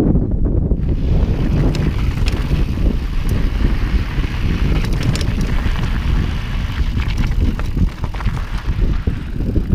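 Mountain bike rolling along a dirt and gravel singletrack, its tyres crunching over the trail with scattered clicks and rattles from stones and the bike, starting about a second in. Heavy wind rumble on the camera microphone runs under it and is the loudest part.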